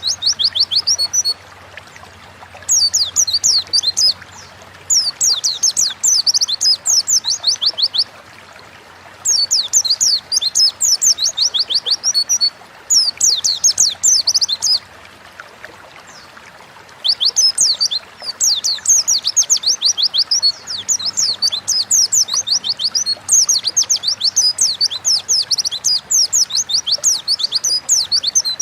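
White-eye (pleci) singing: long, rapid phrases of high, quick sweeping notes, broken by short pauses of a second or two, with one longer unbroken phrase over the last ten seconds or so.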